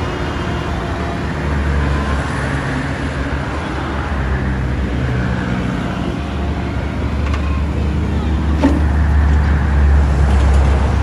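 Diesel engine of a Caterpillar 901B compact wheel loader running, its note rising and falling a little with the throttle and growing louder toward the end, with one brief knock about three-quarters of the way through.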